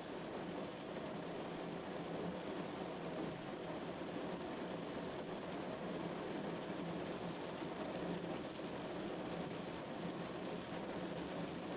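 Rain falling steadily on a car, a continuous even patter with a low, muffled drumming on the body and roof.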